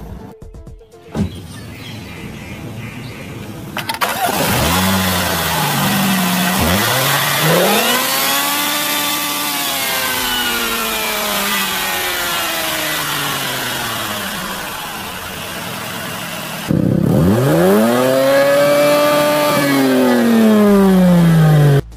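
MINI Cooper S's 2.0-litre BMW B48 turbocharged inline-four engine being free-revved at standstill: the exhaust note rises and falls through several revs. About three-quarters of the way through it becomes suddenly louder for one long rev up and back down.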